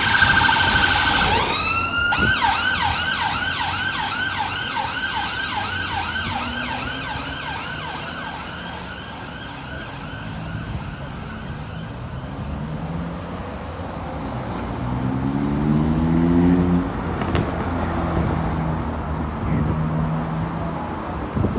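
Emergency vehicle siren going in fast repeated rising-and-falling sweeps, changing pattern about two seconds in, then fading away over the next several seconds. Road traffic follows, with a vehicle engine rising in pitch in the second half.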